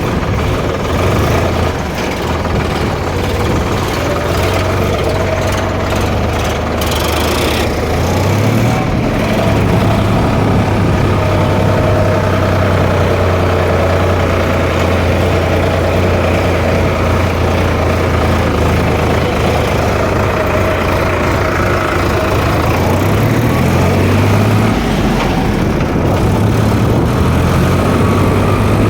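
Tractor diesel engine running steadily, its pitch stepping up about eight seconds in and changing again near the end, as with a change of engine speed while driving.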